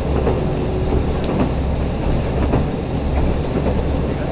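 Steady running rumble of a KiHa 185 diesel railcar, heard from inside the passenger cabin while the train is moving. A single sharp click comes a little over a second in.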